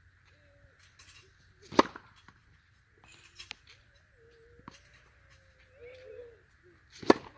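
Two sharp tennis racquet strikes on the ball during serves, about five seconds apart, with a few fainter knocks between them.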